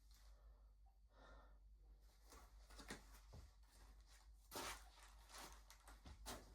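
Near silence with a few faint clicks and a brief soft rustle.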